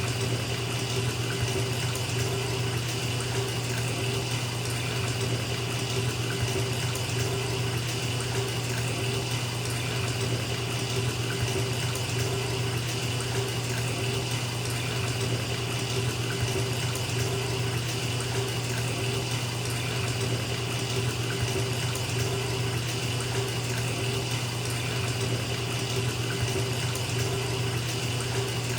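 Bathtub tap running, water pouring steadily into a filling tub.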